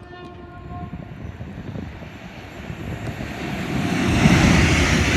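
Class 350 electric multiple-unit train approaching and passing: a rush of wheel and air noise that builds steadily and is loudest about four seconds in. A steady whine fades out during the first second and a half.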